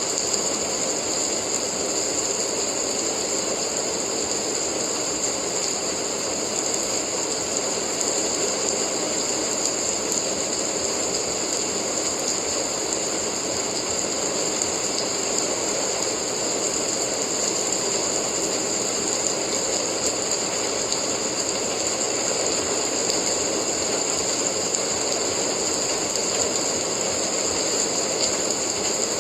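Steady rain noise for sleep: a continuous, even hiss with no breaks or separate drops standing out.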